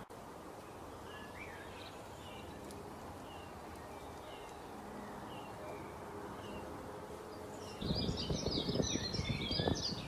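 Birdsong: a bird repeats a short chirp about every three-quarters of a second over a steady hiss. Nearly two seconds before the end the sound jumps louder, into a busy chorus of several birds chattering over low rumbling knocks.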